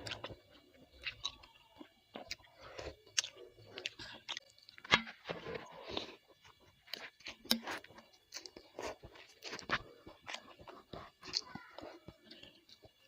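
Close-up chewing of bakso rudal, an Indonesian meatball, with irregular sharp wet clicks and smacks of the mouth. A few louder ones come about five and seven and a half seconds in.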